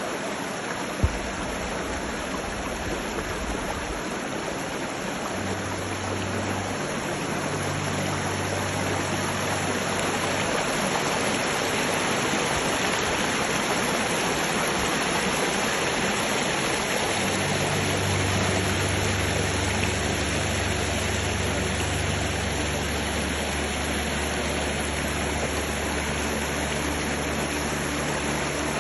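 Steady rushing of a mountain stream, with a low steady hum joining about five seconds in and again past the middle, and one short click about a second in.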